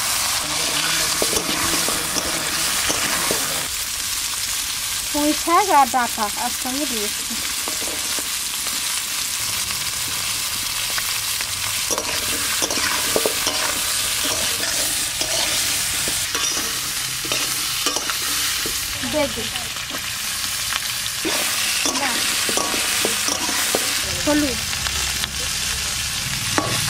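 Potatoes and salted hilsa pieces sizzling in oil in an iron kadai while a metal spatula stirs and scrapes the pan in repeated strokes. A brief squeak comes about five seconds in.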